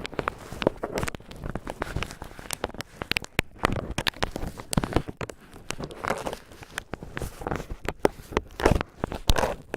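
Cotton swab tips crinkled and rubbed close against the microphone: a dense, irregular run of scratchy crinkles and sharp crackles.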